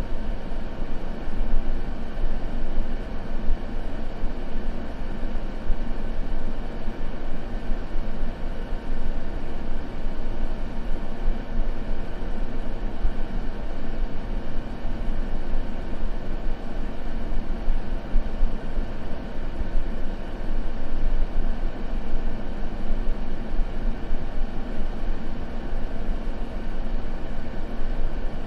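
Continuous noise for sleep masking, steady and unchanging, weighted toward the low end so it sounds deep and rumbling rather than hissy, with no crackle.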